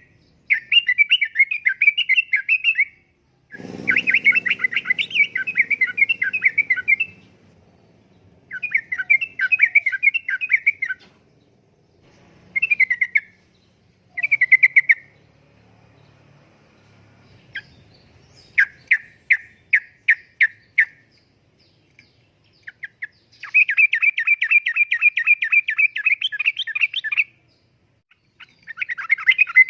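Yellow-vented bulbul (trucukan) singing in repeated bouts of fast, bubbling chatter, each phrase lasting one to four seconds with short pauses between. Some phrases break into separate quick notes.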